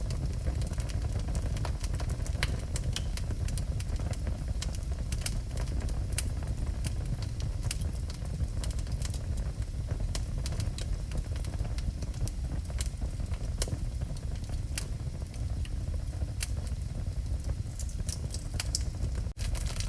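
Wood fire burning in a fireplace: a steady low rumble with frequent sharp crackles and pops throughout. The sound cuts out for an instant just before the end.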